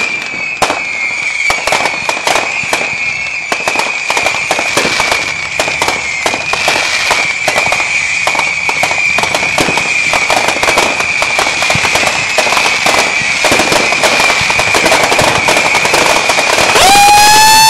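Whistler fireworks: a high steady whistle over dense crackling pops, then a second, lower whistle rising in pitch near the end, the loudest part.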